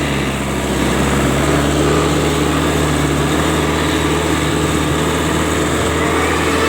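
A vehicle engine running steadily at an even speed, giving a constant low hum.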